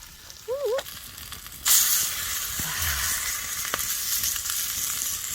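Raw marinated dakgalbi chicken tipped onto a hot maekbanseok (elvan stone) griddle, breaking into a loud, steady sizzle about a second and a half in.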